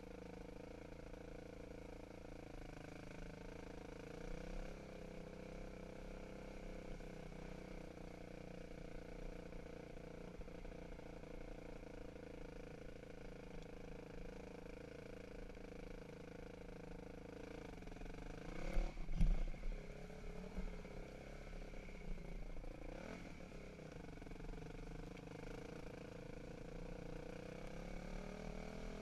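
Dirt bike engine running steadily at low speed, its pitch wavering as the throttle changes. About two-thirds of the way through comes a brief rev with a sharp knock.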